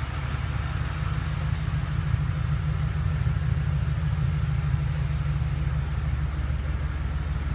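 Lincoln Continental's 32-valve InTech V8 idling steadily, its exhaust a little throaty because the muffler has been ripped off.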